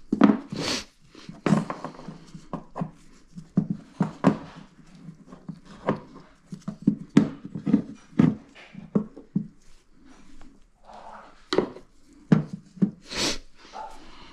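Irregular knocks, taps and clicks of hands handling parts and materials at close range, about a dozen sharp hits spread unevenly, the loudest near the start and about 13 seconds in.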